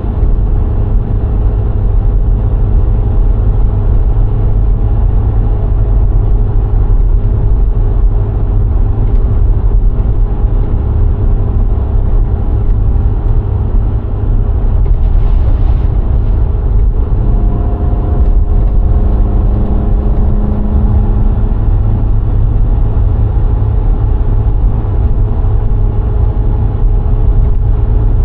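VW Golf IV 1.6 driving on a country road: a steady, loud low rumble of tyres and wind with the engine's hum over it. The engine note shifts for a few seconds a little past the middle.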